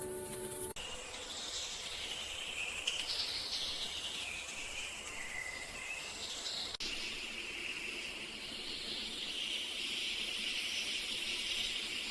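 Outdoor nature ambience: a steady high hiss like insects, with some wavering chirp-like sounds. The sound cuts abruptly about a second in and again near seven seconds.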